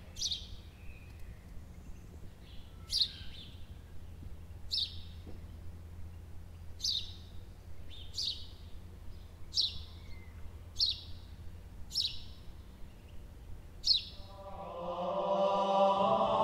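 A bird calling about nine times, each call a short, sharp note falling in pitch, a second or two apart, over a steady low rumble. A choral chant fades in near the end.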